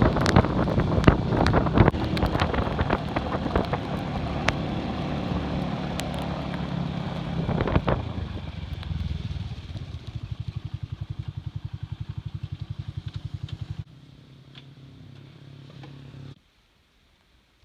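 Classic Earl 150 cafe racer motorcycle riding with wind and road noise and scattered clatter. It slows to an even putting idle about ten seconds in, then drops to a faint sound near the end and cuts off.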